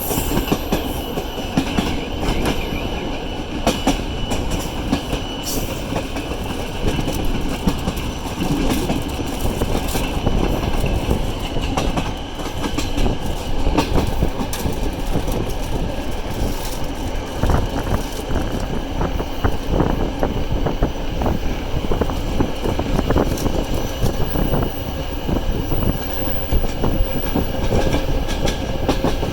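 Passenger train coaches rolling on the track, heard on board: a steady rumble with many irregular clacks and knocks of the wheels over rail joints and points, and thin steady squealing tones above it.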